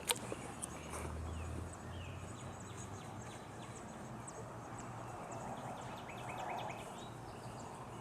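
Quiet outdoor ambience with small birds chirping and trilling in the background, and one sharp click at the very start.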